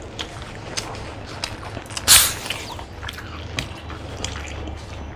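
People chewing and biting into egg rolls, with many small wet mouth clicks, and one brief loud noisy burst about two seconds in.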